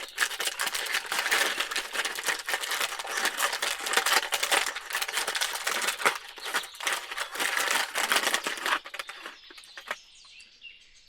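Rapid crinkling and rustling of packaging being handled, dense and crackly for about nine seconds, then dying away to quiet.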